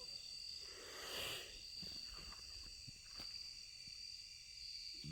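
Quiet outdoor ambience: a steady high-pitched insect chorus, with a few faint clicks and a brief soft sound about a second in.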